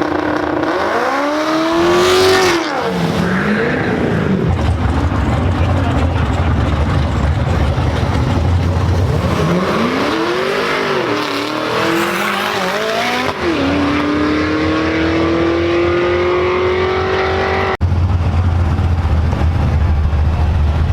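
Car engines revving hard, their pitch sweeping up and down twice, then one long steady climb as a car accelerates. The sound cuts off abruptly near the end and gives way to a steady low engine drone.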